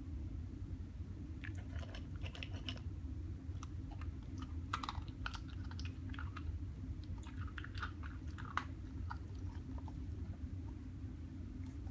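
A schnauzer chewing and crunching dry kibble, in three or four bouts of crisp crunches with short pauses between. A steady low hum runs underneath.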